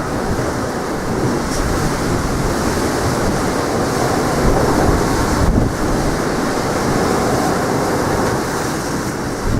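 Strong wind buffeting the microphone with a low, uneven rumble, over the steady wash of sea waves on the shore.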